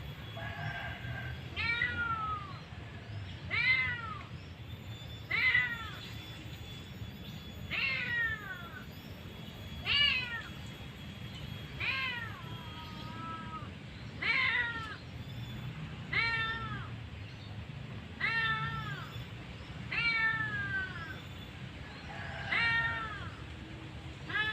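A cat, likely a kitten, meowing over and over, about one short downward-sliding meow every two seconds, over a low steady background rumble.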